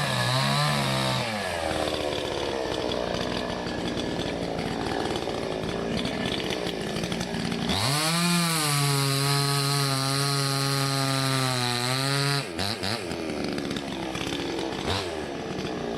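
Salem Master two-stroke gas chainsaw cutting maple. The engine dips and recovers at first, then runs noisier at a lower pitch under load. About eight seconds in it rises to a high, steady pitch for a few seconds, and about twelve seconds in the throttle drops off to a stuttering low speed with a couple of brief blips.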